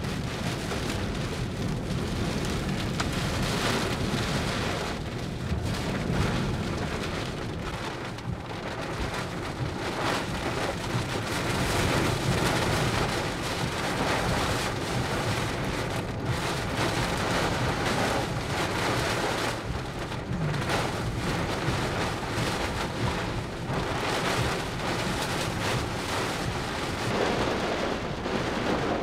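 Heavy wind-driven rain from a derecho's severe thunderstorm line, a dense steady rush that swells and eases with the gusts.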